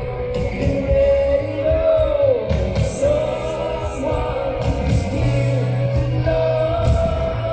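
Live band playing a rock song: a singer holds long, sliding notes over drums and bass.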